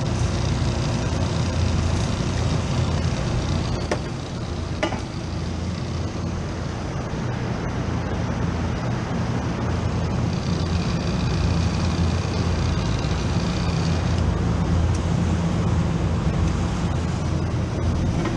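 Steady drone of running motor-driven machinery with a constant low hum and a faint high whine from just past the middle for a few seconds, plus a couple of light clicks early on.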